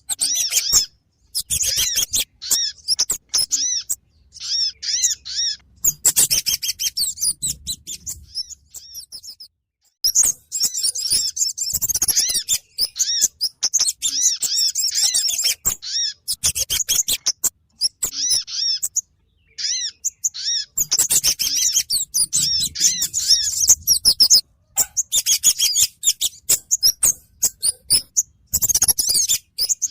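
Bird-trapping lure recording of kemade and sogon bird calls: rapid, high chirps and trills in dense bursts of a few seconds, broken by short pauses.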